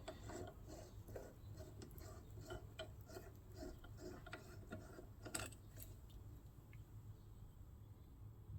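Faint, irregular light clicks and taps of small parts being handled, with one sharper click about five seconds in.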